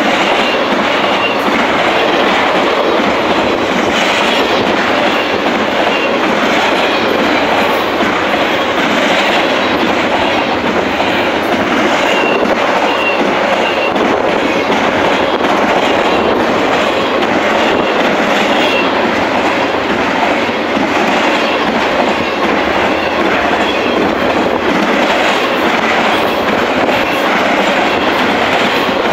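Intermodal freight cars rolling past at close range: a steady, unbroken rumble and rattle of steel wheels on the rails as car after car goes by.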